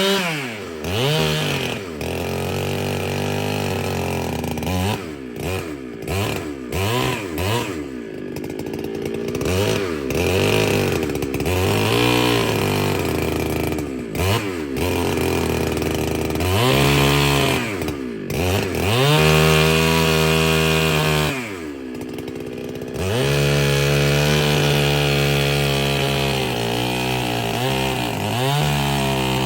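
Ported Husqvarna 395 two-stroke chainsaw running hard, its revs rising and falling again and again, with quick blips of the throttle, then held steady at high revs near the end.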